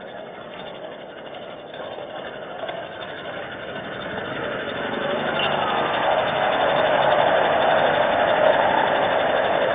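Road vehicle noise, an even hiss that grows louder from about three seconds in and stays loud.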